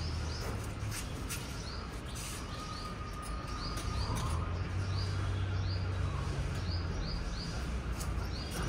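A bird chirping over and over in short, high chirps that often come in quick pairs, over a steady low hum.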